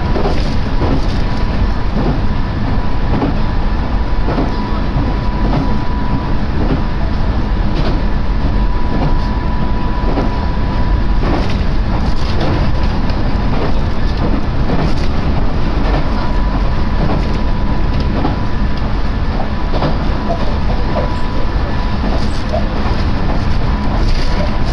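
A Yosan Line local train running along the track, heard from inside the passenger car: a steady rumble of wheels on rails with a steady high whine above it.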